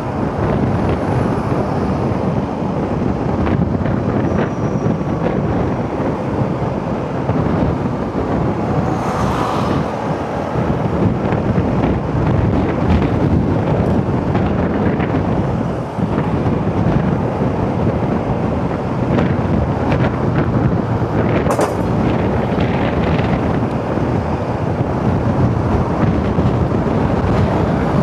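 Wind rushing over the microphone of a moving motorcycle, mixed with steady engine and road noise. A couple of brief sharper sounds come through, about nine seconds in and again a little past twenty seconds.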